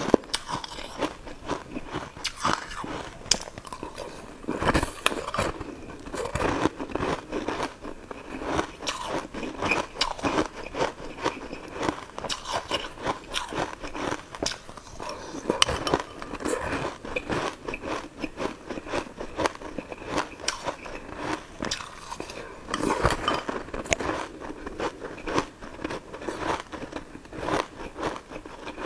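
Close-up eating sounds: steady crunching and chewing of sugar-coated jelly balls, with many small sharp crackles.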